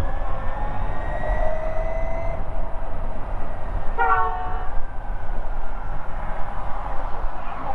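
Ather 450X electric scooter's motor whining, rising in pitch as it speeds up over the first two seconds or so, over a steady low rumble of wind on the microphone. A vehicle horn honks once, for under a second, about four seconds in.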